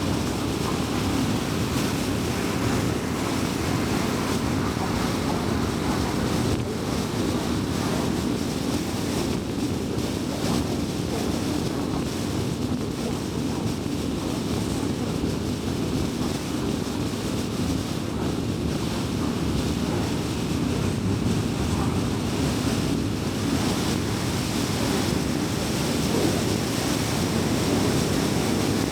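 Car travelling at highway speed: a steady rush of tyre and road noise, deep and even, with no changes in pace.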